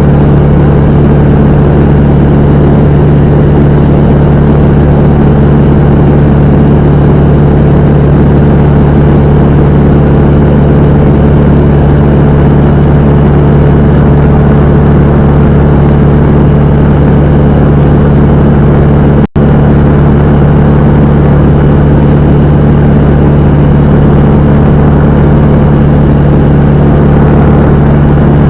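Cessna 172M's four-cylinder Lycoming O-320 piston engine and propeller running at a steady, loud drone, with a split-second dropout in the sound about two-thirds of the way through.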